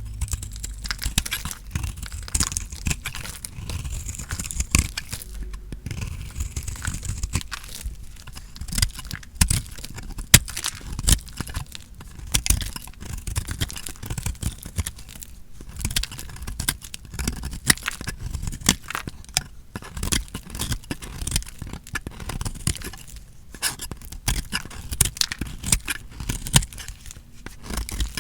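A knife cutting through a bar of dry soap: a continuous run of crisp crackling crunches, broken by a few brief pauses between cuts.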